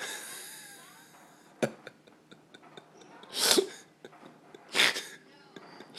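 Two short, breathy bursts from a person, one about halfway through and another a second later, after a fading hiss and a single click near the start.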